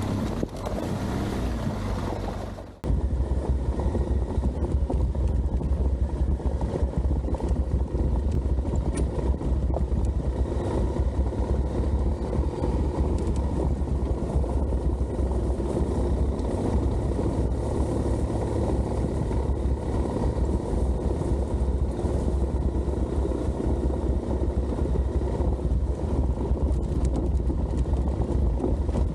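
Wind buffeting the microphone, then, after an abrupt cut about three seconds in, an adventure motorcycle under way with its engine running in a steady low drone.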